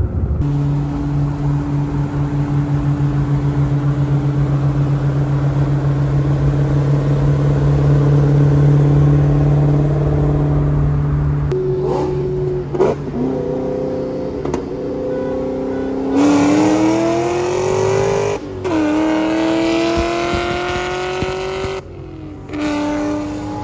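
Car engine held at steady revs for about eleven seconds, then pulling hard: its pitch climbs, drops briefly twice as it is shifted, and settles near the end.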